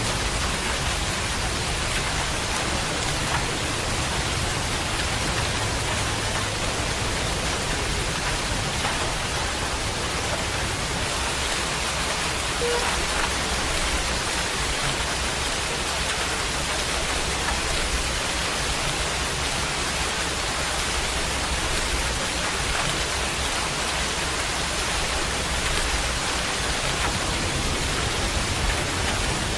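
Steady rain falling, a dense even hiss with the patter of drops on surfaces.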